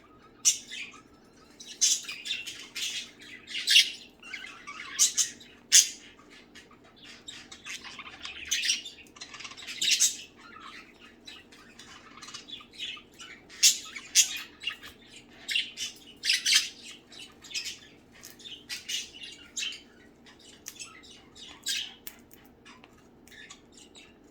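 A flock of budgerigars chattering, with many short, sharp chirps and squawks overlapping in an irregular stream.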